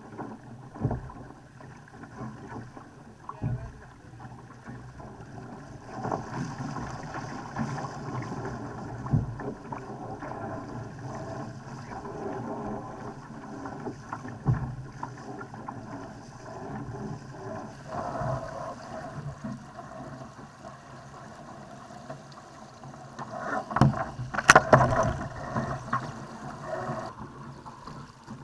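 Laser sailing dinghy moving through the water: water rushing and splashing along the hull, wind on the microphone, and irregular knocks and slaps as the hull meets waves, loudest in a cluster of knocks and splashes about 24 seconds in.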